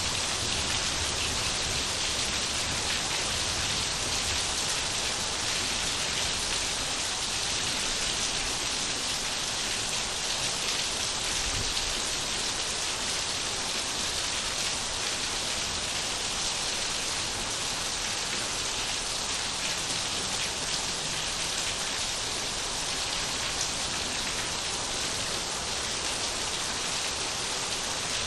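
Steady rain falling and pattering on surfaces, an even hiss that holds without change.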